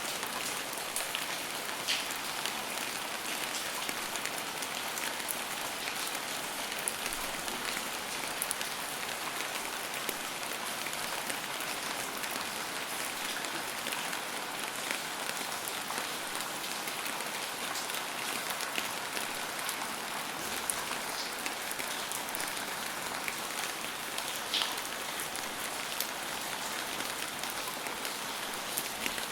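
Steady rain falling on a hard surface, a dense patter of drops with a few louder individual drips standing out now and then.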